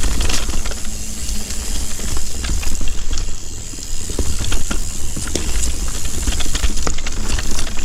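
Mountain bike rolling along a dirt singletrack: tyre noise with frequent short rattles and clicks from the bike over roots and rocks, and wind rumbling on the microphone.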